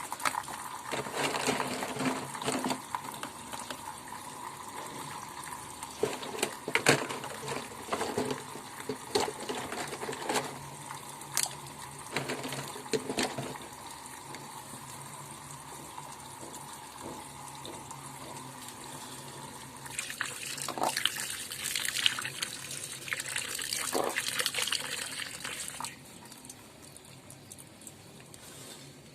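Tap water running and splashing over bath toys, with scattered sharp knocks of the toys against each other. The splashing gets louder about two-thirds of the way through, then the flow falls away suddenly shortly before the end.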